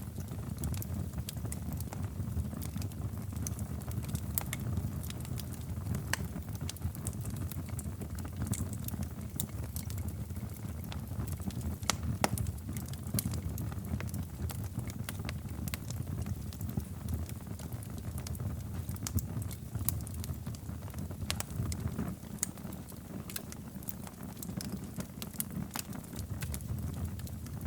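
Wood fire crackling in a fireplace: scattered sharp pops and snaps, irregularly spaced, over a steady low rumble.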